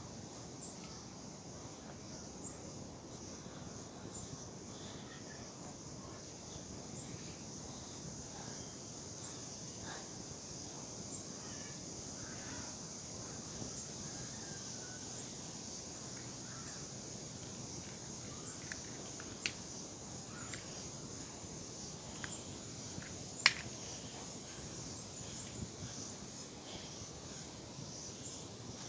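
Steady background hiss, strongest high up, with scattered faint ticks and one sharp click about two-thirds of the way through.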